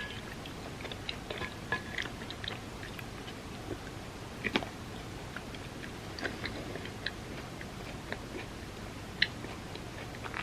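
Close-miked chewing of chocolate truffles softened in warm almond milk: wet mouth clicks and smacks scattered throughout, with sharper clicks about four and a half seconds in and again near nine seconds.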